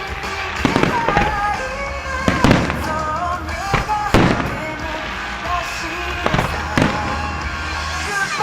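Firework shells bursting in the air, a sudden bang every second or so with the loudest about two and a half and four seconds in, over pop music with a steady bass played through loudspeakers.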